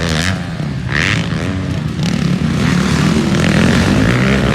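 Motocross dirt bike engines racing on the track, revving up and falling off again and again, more than one bike heard at once.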